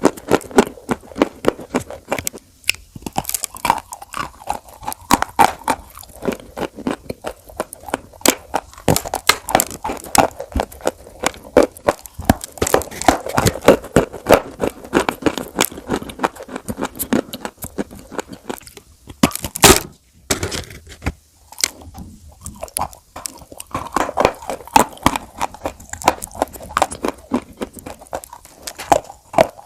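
Crunchy food being bitten and chewed close to the microphone: a dense, irregular run of crisp crunches and crackles, with one sharper crack about two-thirds of the way through.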